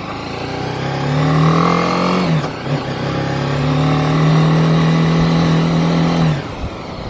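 BMW G 310 GS's 313 cc single-cylinder engine accelerating, its note rising in pitch. It dips briefly about two and a half seconds in, as at an upshift, then climbs again until the throttle closes about six seconds in.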